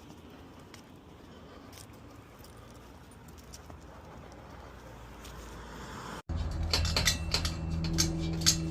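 Faint steady background with a few light clicks. About six seconds in, it cuts abruptly to louder rapid metallic clinking and jingling over a steady low hum.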